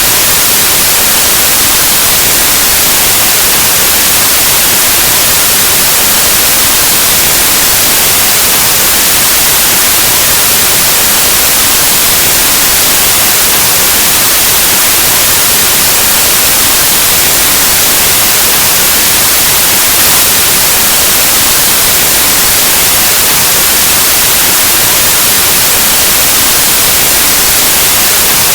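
Steady, loud white noise: an even static hiss across the whole range of hearing, like an untuned analog TV or radio, with no change or break.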